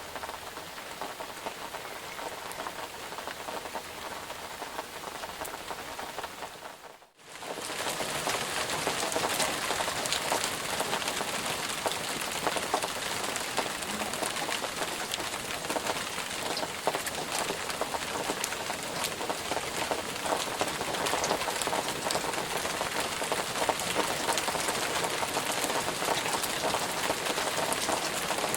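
Steady rain falling, with many separate drops pattering. About seven seconds in, the sound fades out for a moment, then comes back louder and brighter.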